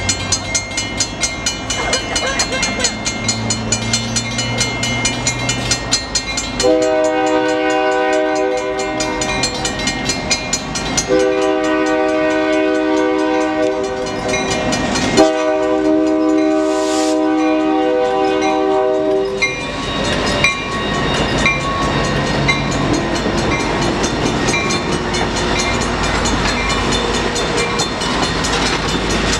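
A train passing with a multi-chime locomotive horn sounding three long blasts of about three to four seconds each, amid the rumble and clickety-clack of the moving train.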